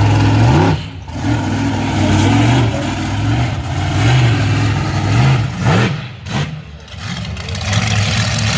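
Monster truck engine running loud and being revved in repeated short blips, its pitch rising and falling several times.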